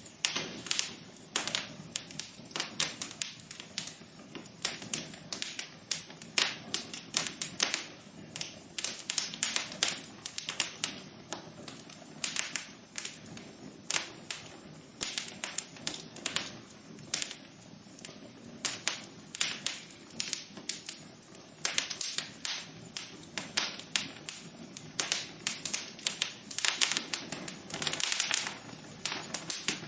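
Wood fire burning in a fireplace, crackling and popping in dense, irregular clicks over a soft low rush of flame.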